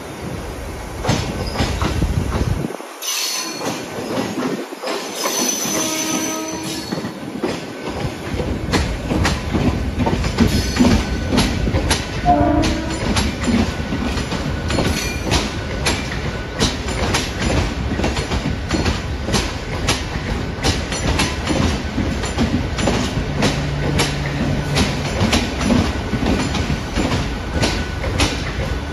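Suburban electric multiple-unit local train running past on the tracks, its wheels clicking rapidly and densely over rail joints and points. A short horn sounds about six seconds in.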